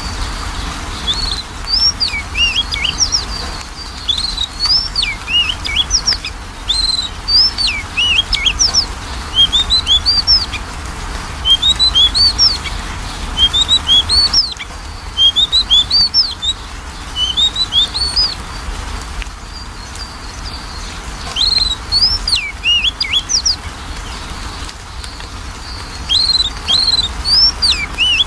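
Oriental magpie-robin (kacer) singing: clear whistled phrases that swoop up and down, delivered in bursts of a second or two with short pauses between.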